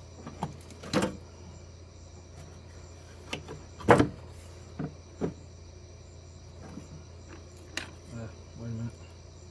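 Intermittent clicks and knocks of parts and hand tools being handled while engine-bay parts are refitted. The loudest knock comes about four seconds in, with smaller clicks around one, five and eight seconds, over a steady low hum.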